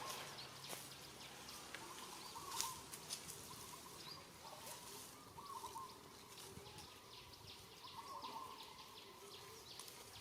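Faint short chirping animal calls, repeated every second or two, over outdoor background noise with scattered light ticks and clicks.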